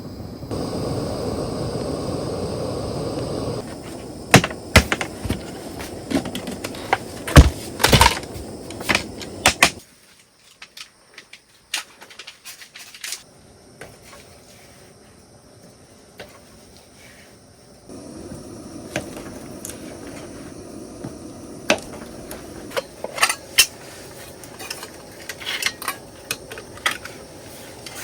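Utensils and cookware clinking and knocking in scattered sharp taps, with a steady hiss during the first few seconds.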